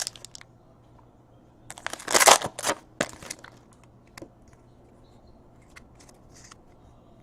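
Trading cards being handled, with crinkling, rustling handling noise in a few short bursts about two to three and a half seconds in, then a few faint ticks.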